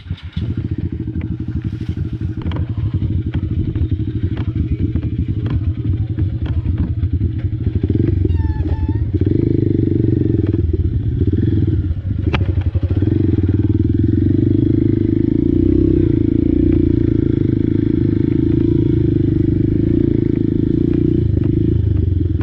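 Small single-cylinder four-stroke Honda dirt bike engine running, with scattered knocks and rattles over the first several seconds. It gets louder about eight seconds in, dips briefly, then holds steady at the higher level.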